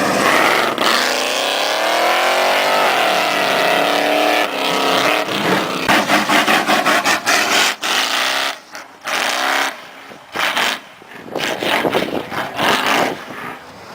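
Car engine revving hard, its pitch climbing and falling, then a string of short, sharp rev blips with brief pauses between them in the second half.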